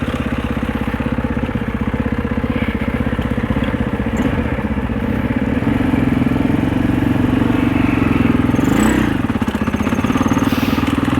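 Husaberg 650 single-cylinder four-stroke enduro bike engine running under way at moderate revs, each firing pulse distinct. The revs briefly dip and pick up again near the end.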